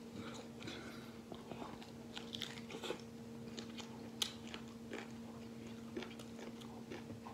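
Close chewing and biting: a person gnawing meat off braised duck wings, with many small, irregular crunches and smacks as meat and cartilage come off the bone. A steady low hum runs underneath.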